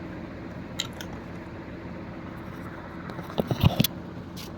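Handling noise: a few clicks and knocks bunched together about three and a half seconds in, with a faint click near the start, over a steady low room hum.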